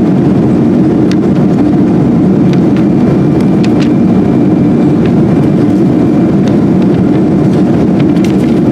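Steady roar inside the cabin of a Boeing 777-200 in flight: jet engine and airflow noise, strongest in the low range. There is a faint steady high tone and a few light clicks.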